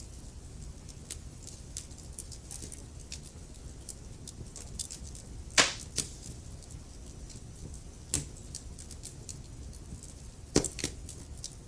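Wood fire crackling in a fireplace: a steady low rumble with many small snaps, a loud pop a bit past halfway, another about two-thirds through, and a quick double pop near the end.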